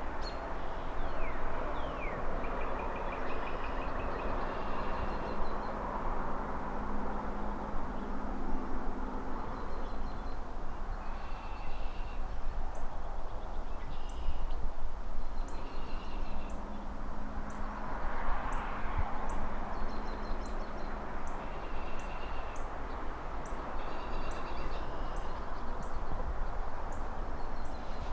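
Distant city traffic, a steady rush that swells as cars pass, with birds chirping in short repeated phrases over it. From about halfway a regular high ticking sets in, about two a second.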